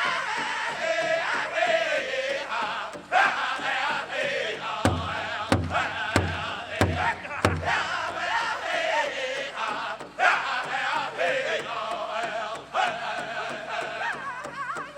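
Powwow drum group singing a high-pitched chicken dance song. Five loud strokes on the big drum, evenly spaced, come about a third of the way in.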